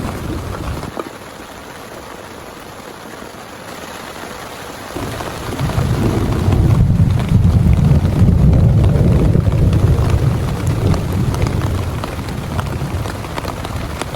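Heavy rain falling steadily through a thunderstorm. A roll of thunder dies away in the first second, and a second long, deep rumble of thunder builds about five seconds in, peaks, and slowly fades.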